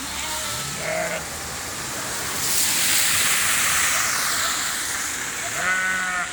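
Sheep bleating, a few short calls near the start and one near the end. In the middle a loud hissing rush swells for about two seconds and fades, over steady rain noise.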